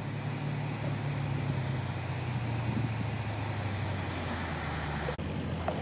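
Dodge Challenger 392 Scat Pack's 6.4-litre HEMI V8 running steadily while cruising, its pitch slowly easing down, with a short break near the end.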